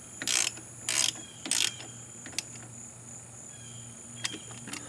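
Ratchet wrench being worked in quick even strokes, three about half a second apart in the first two seconds, then a few faint clicks.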